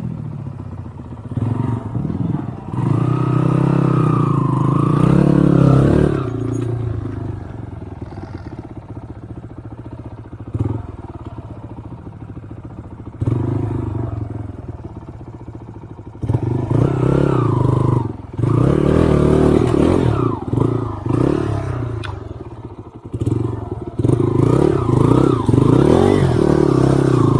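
Off-road motorcycle engine revving in repeated bursts under load, its pitch rising and falling. It drops back to a lower running sound for several seconds in the middle.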